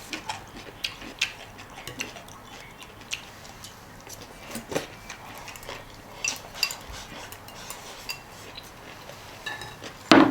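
Eating utensils clicking and tapping against rice bowls and plates at a meal: scattered light clicks, with a louder clatter near the end.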